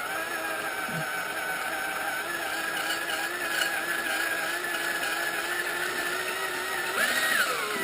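Small battery-powered craft drill whining steadily as a half-inch bit bores through the soft plug inside a stock motorcycle muffler. Near the end the motor's pitch rises briefly, then drops.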